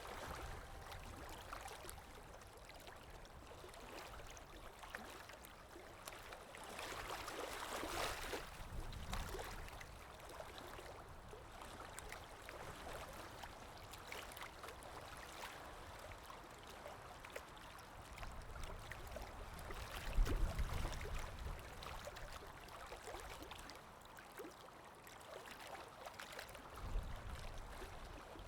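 River water flowing and lapping, a steady rushing with a few low rumbles, the loudest about twenty seconds in.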